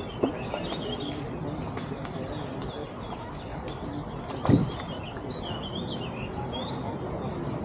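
Small birds chirping in short twittering phrases over steady background noise, with two brief low thumps, the second and louder one about four and a half seconds in.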